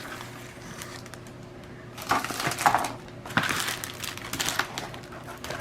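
Packaging being handled and opened: plastic and cardboard rustling and crinkling, with small clicks and clatter of parts, in two bouts after about two seconds of quiet.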